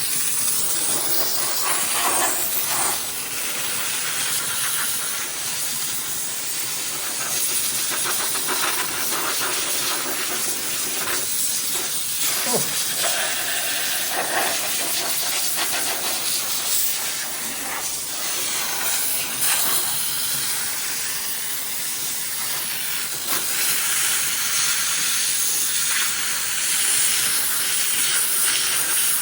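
Small handheld steam cleaner jetting steam in a steady loud hiss that swells and dips as the jet is worked over metal parts.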